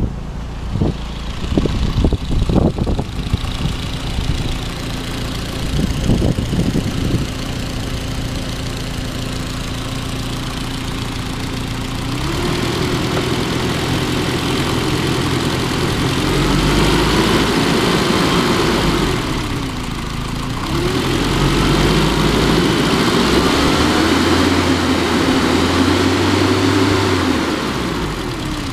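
BMW E30 M3's S14 inline-four engine idling steadily, then revved up by hand at the throttle and held at raised revs, dipping once briefly before rising again and dropping back to idle near the end. A few knocks sound in the first few seconds.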